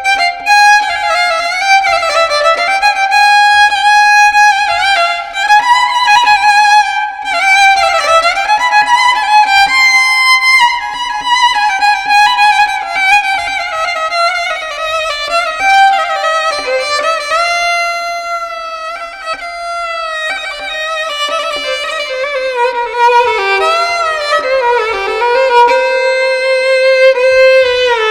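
Background music: a solo violin playing a slow melody with sliding, bending notes.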